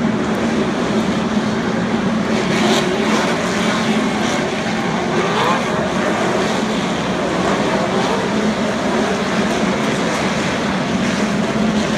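NASCAR Camping World Truck Series V8 race trucks running laps, a loud, steady, unbroken engine drone from the field of trucks.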